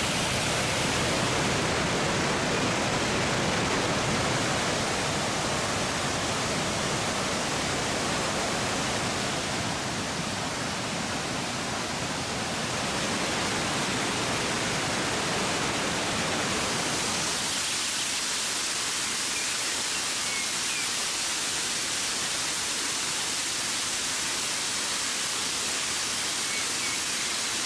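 Krka waterfalls: water pouring over travertine cascades in a steady, full rush. About two-thirds of the way through, the deeper part drops away and the rush turns thinner and hissier.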